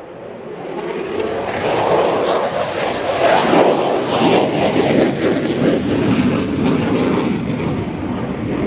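Fixed-wing aircraft passing close with loud engine noise that swells over the first couple of seconds, is loudest a few seconds in, then stays loud.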